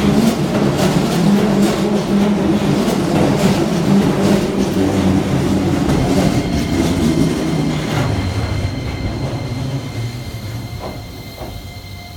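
Keihan electric commuter train running over rail joints with a clickety-clack, its running noise fading steadily toward the end.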